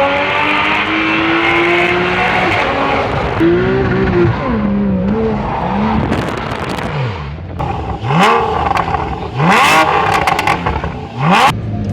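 Porsche 911 (991) Carrera GTS's 3.8-litre flat-six through a loud IPE aftermarket exhaust, pulling with a steadily rising pitch, then revved in a series of quick blips that rise and fall sharply in the last few seconds.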